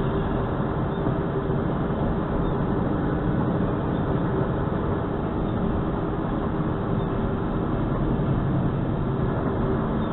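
Steady vehicle driving noise picked up by a dash cam's microphone: an even rumble of road and engine with a faint constant hum and no sudden events.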